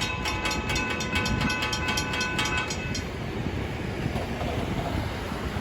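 Freight train cars rolling past with a steady rumble. Over it comes a rapid metallic ringing, about four to five strokes a second, that stops about three seconds in.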